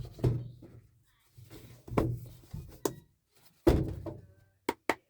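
A series of soft thuds and knocks, about six or seven, from a deck of oracle cards being handled and tapped on a table, with two sharp clicks near the end.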